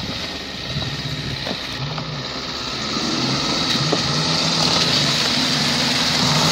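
An off-road SUV's engine working under load, its pitch rising and falling as the throttle is worked; it grows louder over the last few seconds.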